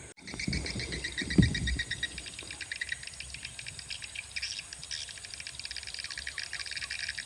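Small birds chirping in rapid, high, pulsing trills that go on steadily, with a soft low thump about a second and a half in.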